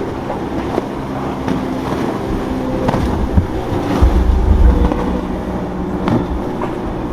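Motorboat engines running, with a low rumble swelling about four seconds in and a few faint sharp knocks.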